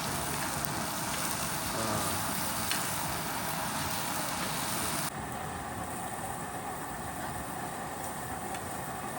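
Food sizzling and bubbling over a camp stove, a steady hiss. About five seconds in it changes abruptly to a quieter, duller sizzle.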